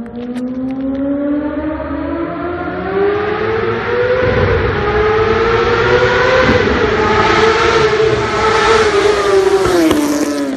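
Suzuki GSX-R1000 K7 inline-four engine revving: the note climbs steadily for several seconds with two brief dips, holds high and wavering, then falls sharply near the end.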